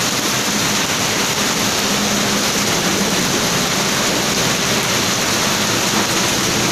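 Heavy monsoon downpour: a dense, steady hiss of rain pouring onto flooded ground and the road.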